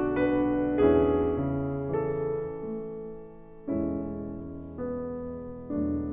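Slow, gentle solo piano music: single notes and chords struck about once a second and left to ring out and fade.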